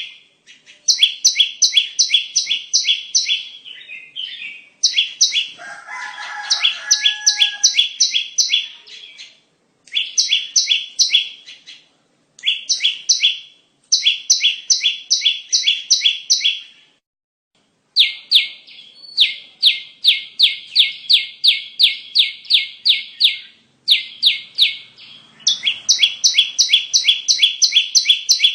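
Bar-winged prinia (ciblek) calling: a rapid run of sharp, evenly repeated chirps, about three or four a second, in bursts of a few seconds with short breaks, as played for luring prinias. About six seconds in, two lower whistled notes sound briefly beneath the chirps.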